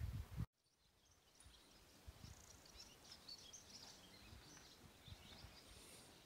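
Faint outdoor ambience with small birds chirping in the distance. A low wind rumble on the microphone cuts off abruptly about half a second in.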